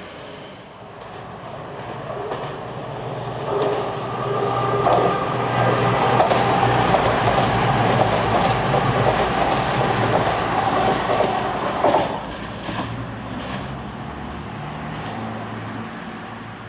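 A train running past on the line: it builds over a few seconds and is loudest through the middle, with wheel clicks over rail joints and a steady whine. It drops away suddenly about twelve seconds in and fades.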